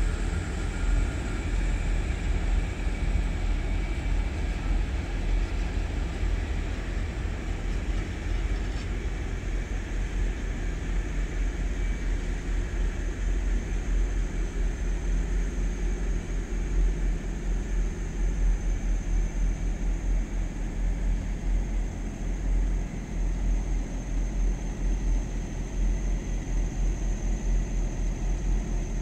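A train running by: a steady rumble that holds for the whole stretch, with faint high-pitched whines above it.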